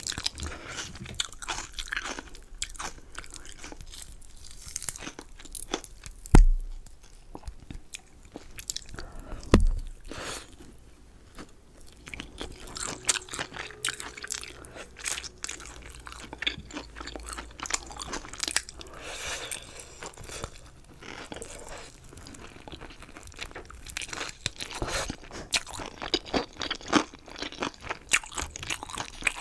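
Close-miked chewing and crunching of fried chicken wings and chicken gizzards, irregular crackly bites and chews throughout. Two louder dull thumps stand out, about six seconds in and again three seconds later.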